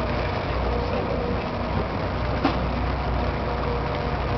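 Ship's engine running with a steady low drone under an even wash of noise, with one faint click about halfway through.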